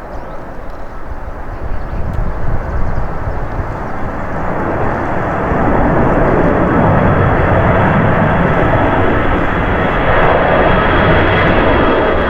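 Airbus A321 jet airliner's engines at takeoff power, the noise swelling over the first few seconds and then holding loud, with a thin high whine over the broad rush.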